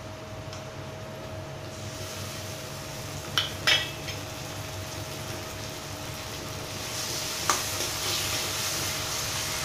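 Onion, green chilli and garlic sizzling in oil in a steel kadhai, with a few sharp metal clinks a little over three seconds in as chopped tomatoes are added from a bowl. A steel spoon then stirs the pan, another clink comes about seven and a half seconds in, and the sizzle grows louder near the end.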